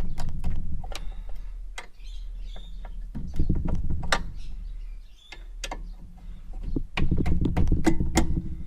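Ratchet spanner clicking in three bursts, with tool clinks between, as the front brake caliper's mounting bolts are undone.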